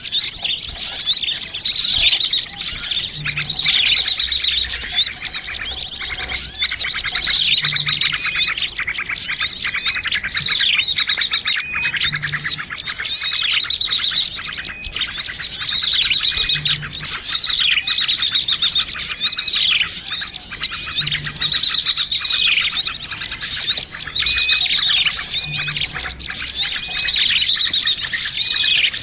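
Bird-lure recording of many small birds chirping and twittering at once, a dense, busy chorus of high, quick calls overlapping without a break.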